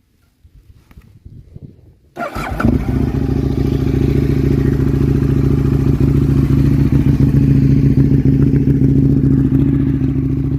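Aprilia RSV Mille's V-twin engine, breathing through a Mivv slip-on exhaust, starting about two seconds in after a brief crank, then idling steadily.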